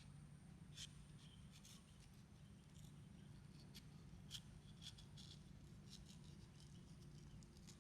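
Near silence over a low steady hum, with a few faint, scattered clicks and ticks.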